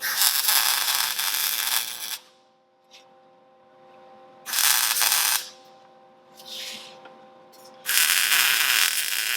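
Arc welding tacks on thin-wall stainless exhaust pipe: three bursts of steady, crackling arc noise, about two seconds at the start, a shorter one in the middle and another near the end, over a faint steady hum.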